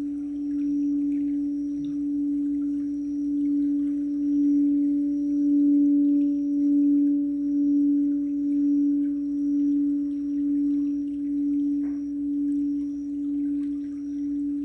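Crystal singing bowl sounding one sustained low tone with a fainter overtone above it, its loudness wavering in a slow pulse about once a second.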